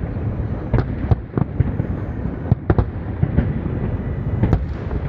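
Fireworks exploding: a continuous low rumble of distant shell bursts, broken by a dozen or so sharp cracks.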